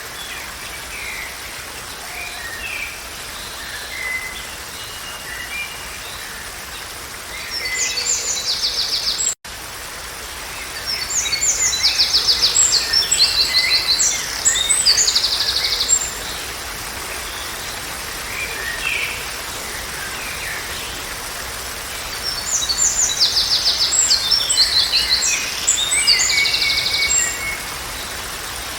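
Songbirds singing over a steady background hiss: scattered soft chirps, with three louder bouts of fast, high trilled phrases about 8, 11 to 16 and 22 to 27 seconds in. The sound drops out for an instant about nine seconds in.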